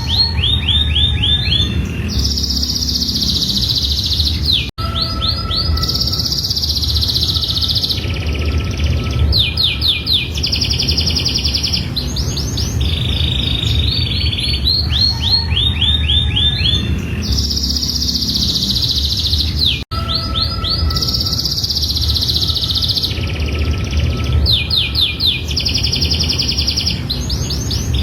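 Domestic canary singing a long, unbroken song of rapid trills, rolls and held buzzy notes, its phrases repeating, over a low steady hum. The song cuts out for an instant twice, about 5 and 20 seconds in.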